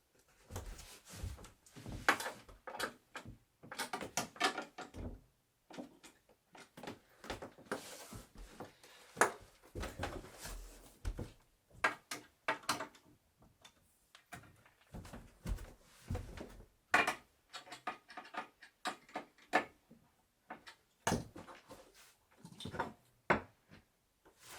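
Wooden bed parts being handled and fitted together: irregular knocks and clunks of wood on wood, with short scrapes and creaks in between.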